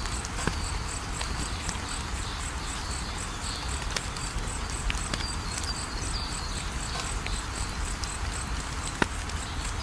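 Wood fire crackling with scattered sharp pops over a steady hiss, the loudest pop about nine seconds in. Crickets chirp in a fast, even pulse behind it.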